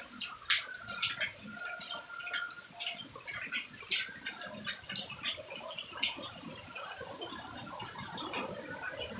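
Rain dripping and splashing beside a house: irregular drops tapping on hard surfaces, with a denser run of trickling water building near the end.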